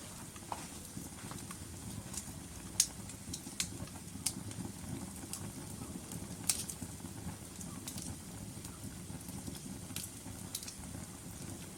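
Logs burning in a fireplace: a steady low rumble of flame with sharp crackles and pops scattered irregularly through it, the loudest pops about three seconds in and about halfway through.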